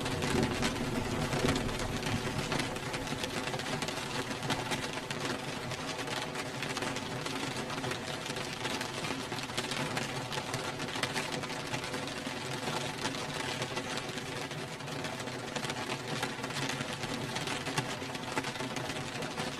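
Steady rain falling as an even, dense patter, with faint steady tones held underneath.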